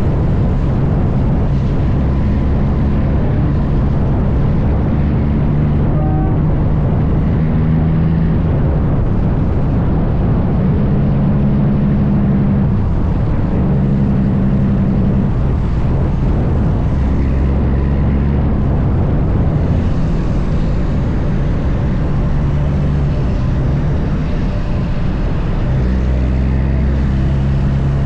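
Heavy diesel truck engine running at road speed, with a loud, steady rumble and road noise throughout and its low drone shifting in pitch every second or two.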